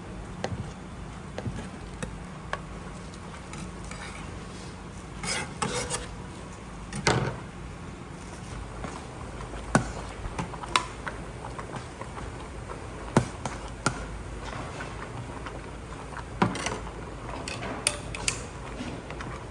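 Kitchen utensils and dishes clinking and knocking at irregular intervals, with a louder cluster of clatter about five to seven seconds in, over a steady low hum.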